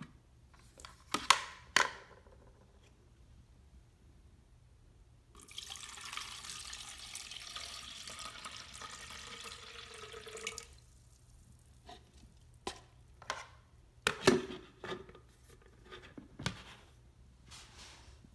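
Water running from a tap for about five seconds, likely filling the humidifier's water tank, between sharp clicks and knocks of plastic parts being handled.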